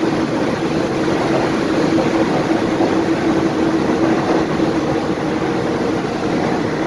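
Steady rumble and hum inside a Vande Bharat Express coach as the train rolls slowly along the platform, with one constant droning tone running under it.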